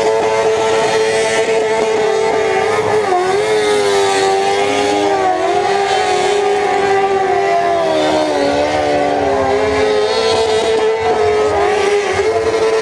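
Motorcycle engine running at a steady road speed under a rush of wind noise. Its pitch dips and rises a few times, with other engine tones gliding across it.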